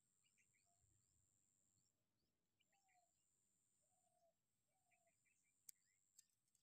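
Very faint bird calls: short chirps repeating, with a few short lower whistled notes, over a steady high-pitched thin tone. Two soft clicks near the end.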